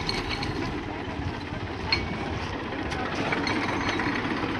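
Tractor diesel engine running steadily, with a single short click about two seconds in.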